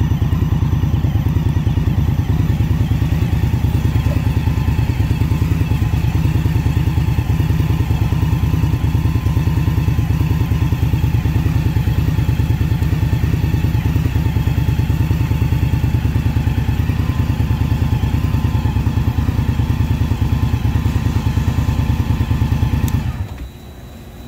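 Indian Scout Bobber Twenty's 1133 cc V-twin engine running steadily at low revs with a pulsing exhaust beat. It is switched off suddenly near the end, leaving much quieter surroundings.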